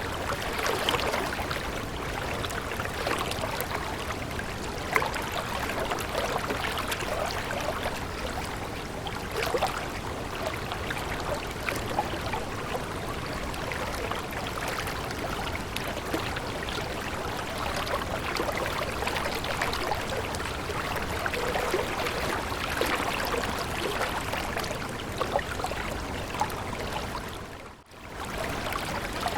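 Water flowing in a stream: a steady babble with small splashes and gurgles. It drops out for a moment near the end.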